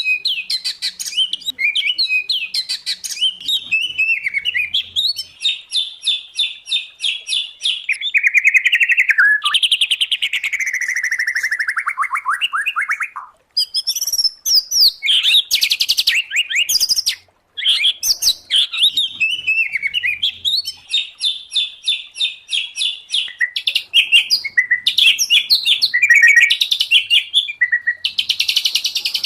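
Caged songbirds in full, non-stop song: a mix of white-rumped shama, oriental magpie-robin and greater green leafbird. Fast repeated trills run into long down-sliding whistles about 8 to 12 seconds in, and the song breaks off for a moment twice in the second half.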